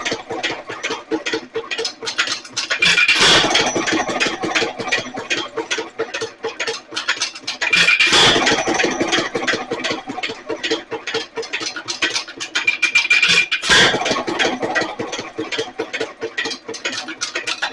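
Nelson Little Jumbo 1½ HP single-cylinder hit-and-miss engine running, with its mixer being leaned out. It fires in short louder bursts about every five seconds and coasts with a fast steady clatter in between.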